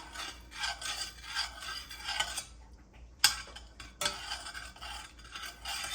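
A spoon stirring pickle brine in a pot, scraping against the pot in repeated strokes, with a sharp clink about three seconds in.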